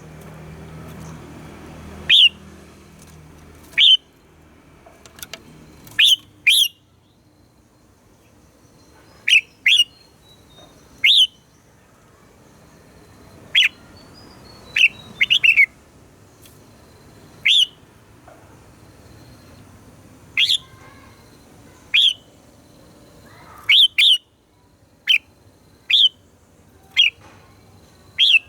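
Red-whiskered bulbul giving short, sharp calls that each drop steeply in pitch, one at a time or in quick pairs and threes, every second or two.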